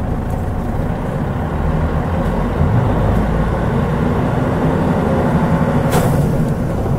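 Mitsubishi Fuso Aero Star city bus heard from inside while under way, its 6M70 turbocharged straight-six diesel running steadily. About six seconds in there is one brief, sharp burst of noise.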